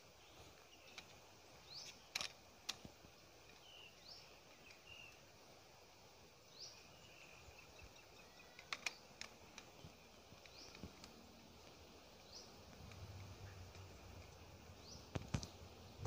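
Near-silent outdoor ambience: faint short high chirps from a bird every second or two over a steady hiss, with a few sharp clicks.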